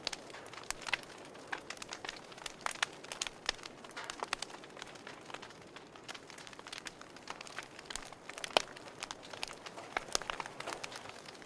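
Wood fire in a fireplace crackling: irregular sharp pops and snaps over a soft steady hiss, the loudest pop about eight and a half seconds in.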